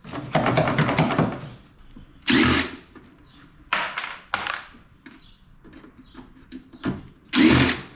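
Power drill running in short bursts, backing screws out of an air-conditioner unit being stripped for scrap. A longer run comes at the start, then several short bursts, the loudest near the end.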